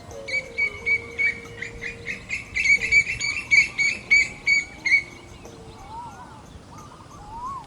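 Birds calling: a quick run of short, repeated high notes, about three a second, for roughly five seconds. These are followed by a few lower whistled notes that rise and fall.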